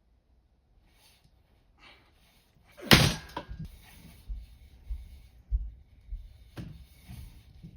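A single loud bang about three seconds in, then a run of lighter knocks and thuds.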